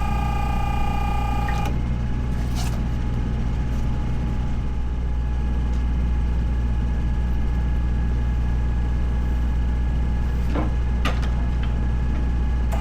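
A steady, deep engine rumble runs throughout, with a few sharp clicks or knocks: one about two and a half seconds in and two more near the end. A steady whine with overtones cuts off about a second and a half in.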